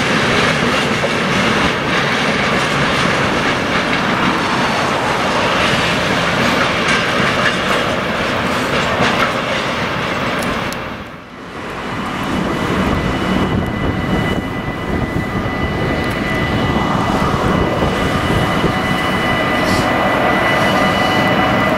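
Freight train wagons rolling past, wheels clattering over the rail joints. About halfway the sound drops away briefly, then the rolling resumes with thin steady high squealing tones from the wheels.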